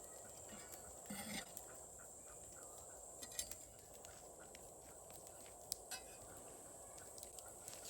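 Faint steady background hiss with scattered light clicks, and a short louder rustle or knock about a second in and another near three and a half seconds.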